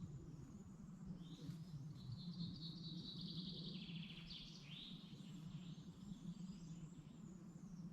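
Faint forest birdsong: one bird sings a rapid trilled phrase of about three seconds that drops in pitch near its end, followed by fainter high calls, over a steady low rumble.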